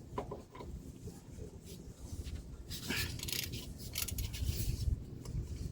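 Faint clicks and scraping of hand tools and metal parts being handled under a truck, with a louder rustling scrape about three seconds in.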